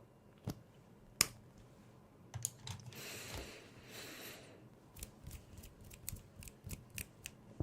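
Crisp clicks or snips from small objects handled close to the microphone: two single clicks, a soft hiss of about a second and a half, then a quick run of about a dozen clicks.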